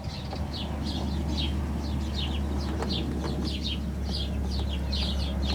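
Birds chirping over and over, short falling calls several times a second, over a steady low hum.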